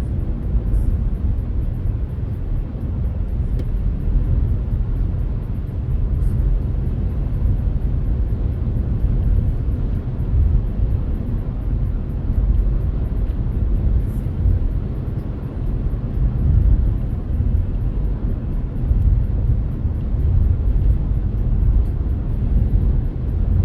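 Renault Kardian driving along the road: a steady, deep rumble of tyre, road and engine noise that rises and falls a little but never stops.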